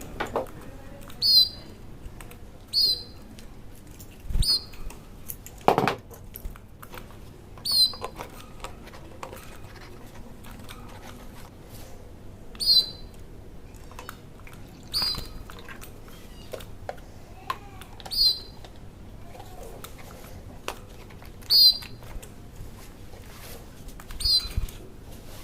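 A small bird chirping, about eleven short, high single chirps spaced irregularly every one and a half to three seconds. There is one knock about six seconds in.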